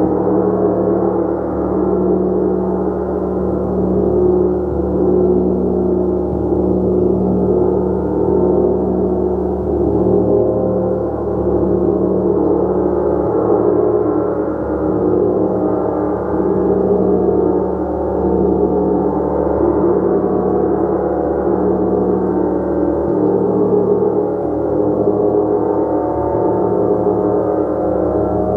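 A gong played continuously, its dense wash of overlapping tones sustained at a steady loudness and swelling gently every couple of seconds.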